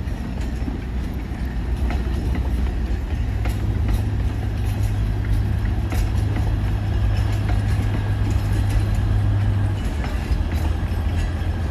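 Alishan Forest Railway train running, with the steady low drone of its diesel locomotive and scattered clicks and knocks from the wheels on the track. The engine note steps up about three seconds in and drops back near the end.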